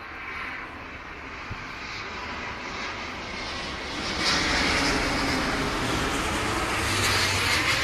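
Jet engine noise from the Airbus A350-1000's Rolls-Royce Trent XWB turbofans as the airliner flies past. The sound is steady and grows louder about four seconds in.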